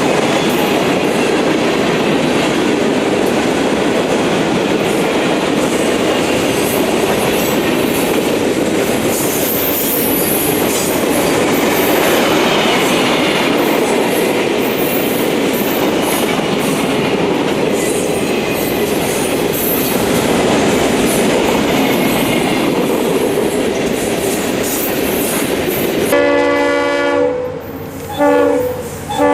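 Freight train cars rolling past at speed, a steady loud rush and rattle of wheels on the rails. Near the end a locomotive's air horn sounds a chord in a few blasts.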